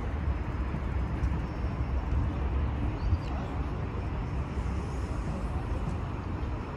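A train running, a steady low rumble.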